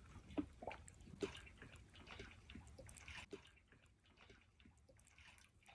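Campfire crackling with faint scattered pops, and small waves lapping at a lakeshore; both grow softer a little past halfway.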